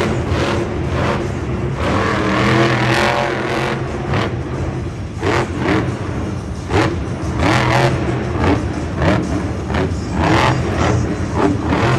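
Monster truck's supercharged V8 engine revving hard again and again. The pitch sweeps up and falls back, with short sharp blips of throttle in between.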